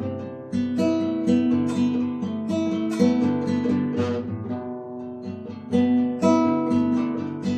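Improvised music on a plucked string instrument: picked and strummed chords ringing and decaying, with a few stronger strums along the way.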